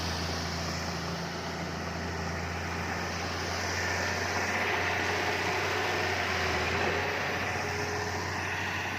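Heavy diesel engine of earthmoving machinery running steadily, with a low hum, growing a little louder through the middle for a few seconds and then easing back.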